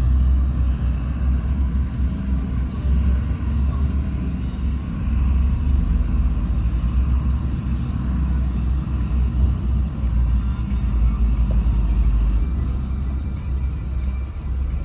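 Heavy diesel earthmoving machinery running steadily with a deep, even rumble.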